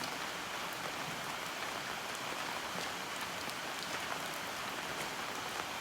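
Steady rain falling on a hard surface, an even hiss with scattered ticks of single drops.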